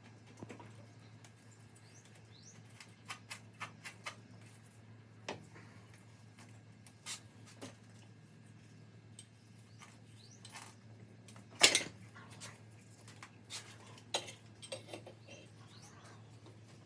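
Metal tools and parts being handled: scattered short clinks and knocks at irregular intervals, with one much louder clank about two-thirds of the way through.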